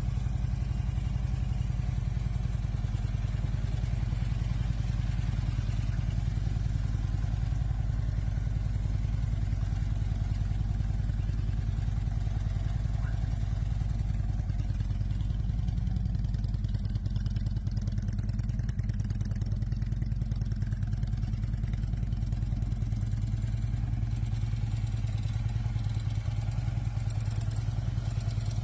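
Harley-Davidson Tri Glide's V-twin engine running steadily with an even, rapid pulse, without revving.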